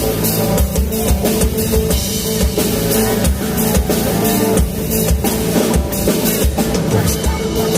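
Live band music with a drum kit playing a steady beat, kick and snare, over sustained bass and instrument notes.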